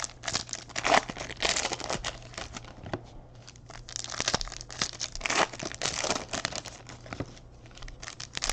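Trading card pack wrappers crinkling and tearing as packs are opened and cards are handled: a run of irregular rustles and crackles.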